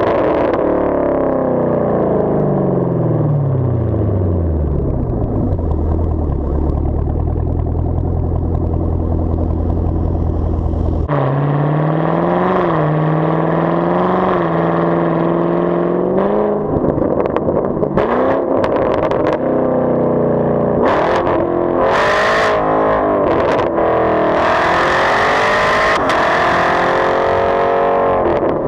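Exhaust of a 2019 Camaro SS's 6.2-litre V8 with the muffler and secondary catalytic converters deleted. Revs fall back and settle into a steady idle, then the sound cuts to a series of throttle blips and revs rising and falling, with several sharp cracks near the end.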